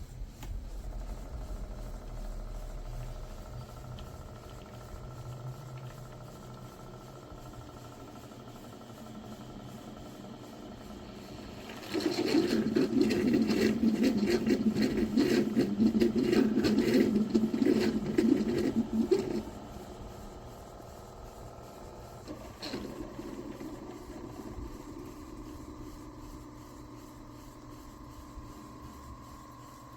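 A small motor or pump buzzes and rattles loudly for about seven seconds, starting and stopping abruptly, over a faint steady hum. A single click follows a few seconds after it stops.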